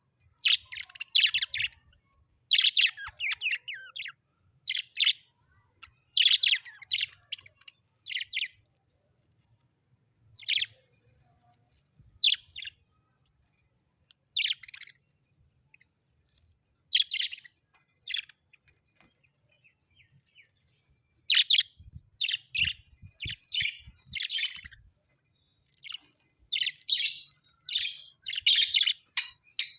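Small birds chirping in short bursts of quick, high notes, with pauses of a second or more between bursts.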